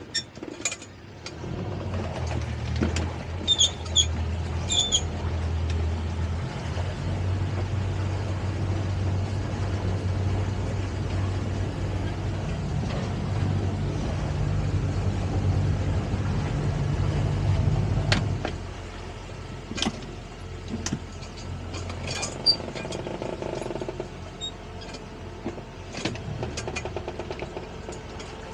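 Boat motor running with a steady low drone that cuts off about 18 seconds in, with scattered clicks and knocks around it.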